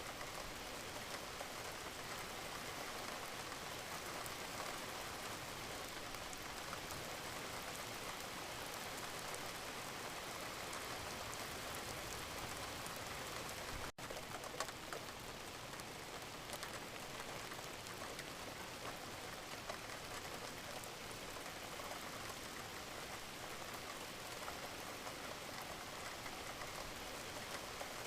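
Wood fire crackling and hissing in a fireplace: a steady hiss sprinkled with many small pops and ticks, with a brief dip about halfway through.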